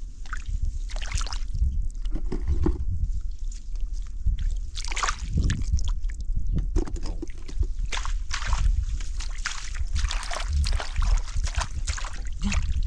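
Water sloshing and splashing in repeated irregular bursts, as the water is stirred by hand in a shallow flowing stream, over a steady low rumble.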